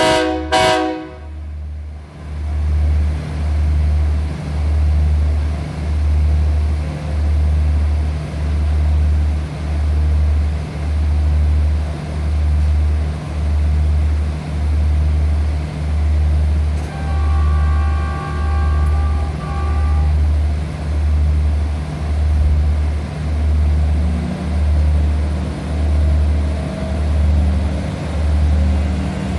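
Diesel train horn gives a short blast at the start, with a fainter, longer horn about 17 seconds in. Under them, a heavy low throb pulses steadily about every 1.3 seconds.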